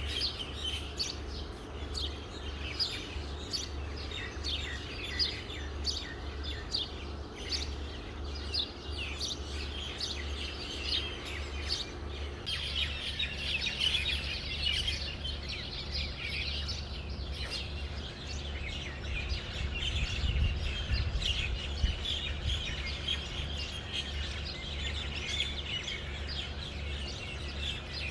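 Many small birds chirping in a morning chorus: quick, short chirps that thicken into a denser chorus about halfway through, over a steady low hum.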